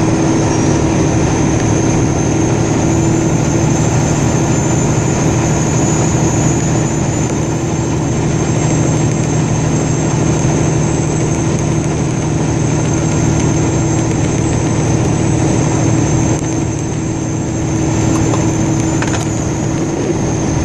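A vehicle engine running steadily while under way, with a constant low hum and a thin, high whine over it.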